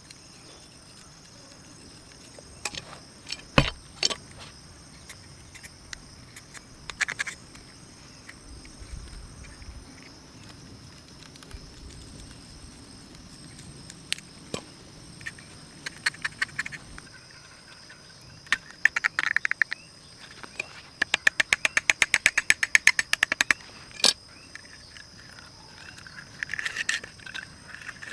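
Steady high-pitched insect drone, with scattered sharp clicks and knocks and, about two-thirds of the way through, a quick run of even taps at about eight a second.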